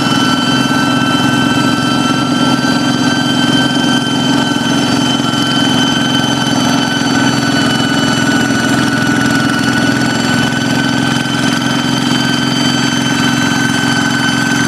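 Hand tractor's diesel engine running steadily, with a steady high whistling whine over the engine note, the jet-like sound these tractors are modified for.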